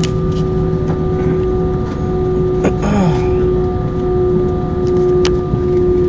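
Airbus A319 cabin noise: a steady low jet-engine and air-system drone with a constant hum. A few light clicks and a brief swish come about three seconds in.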